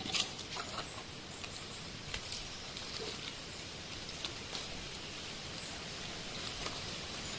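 Quiet jungle ambience with scattered small clicks and rustles and a brief faint high-pitched tone.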